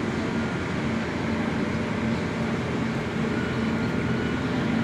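A heavy diesel engine running steadily with an even, unchanging drone.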